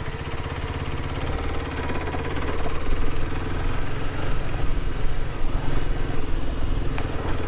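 Kawasaki KLX300 single-cylinder four-stroke engine running while the motorcycle is ridden along a dirt single track. The throttle varies, and the engine grows louder from about two or three seconds in.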